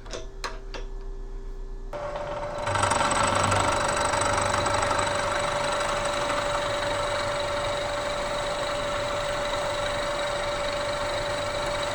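Bridgeport milling machine with an end mill taking a 75-thousandths-deep cut. A few clicks come first. About two seconds in, a steady whine starts, and soon after the louder cutting noise comes in and holds steady.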